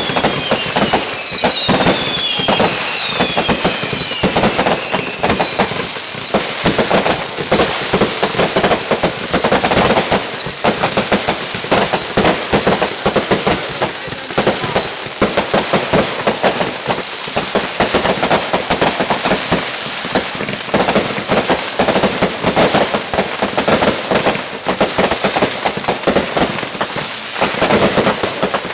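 Fireworks crackling and popping in a dense, continuous barrage, with high whistles that fall in pitch repeating about once a second.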